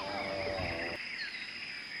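Jungle ambience: a steady high-pitched insect drone with scattered bird chirps. A lower sound made of several steady tones stops suddenly about a second in.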